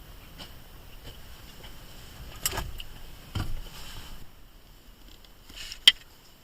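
A few handling knocks and clicks: a click about two and a half seconds in, a dull knock a second later, and a sharper, louder click near the end, over a faint steady high tone that stops about four seconds in.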